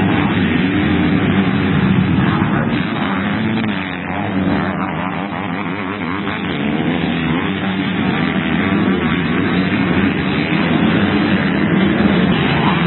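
Several motocross bikes racing, their engines revving up and down over one another as riders work the throttle and shift, easing off a little about four seconds in before building again.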